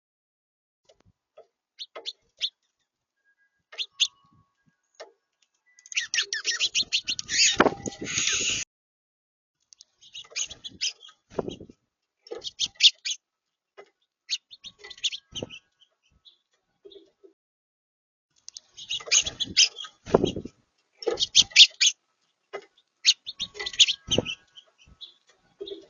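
Small songbirds chirping and warbling in bursts of a few seconds, with short gaps between, and a few dull low thumps among the calls.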